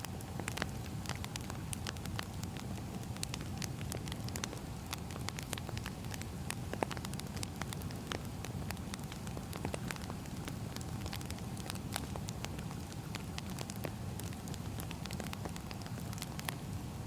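Burning firewood crackling, with irregular sharp pops over a steady low rumble of the fire.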